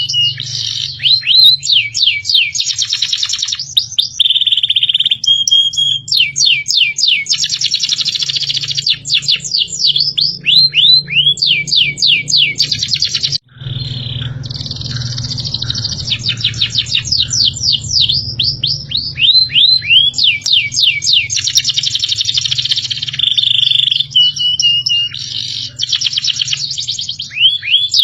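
Recorded songbird song played as a masteran training track: repeated phrases of fast, high, downward-sweeping whistled notes, with short steady held tones in between. The song breaks off for an instant about 13 seconds in, where the recording loops, and a low steady hum runs underneath.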